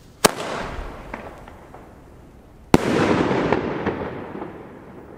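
Funke Iskra Line 30mm single-shot fireworks going off: two sharp bangs about two and a half seconds apart, each trailing off over a second or two.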